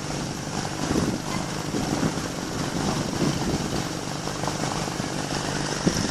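A car engine running steadily, with a low, even hum.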